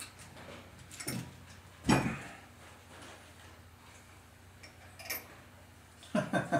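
A few scattered metal clinks and knocks of bolts, nuts and washers being handled and fitted, the loudest a thump about two seconds in.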